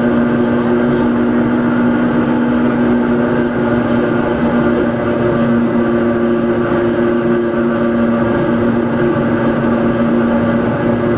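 Hakone Tozan Railway Moha 1 electric railcar No. 106 running at a steady speed: its nose-suspended SE121-A traction motors and gearing give a steady whine of several held tones over the rumble of the wheels on the track.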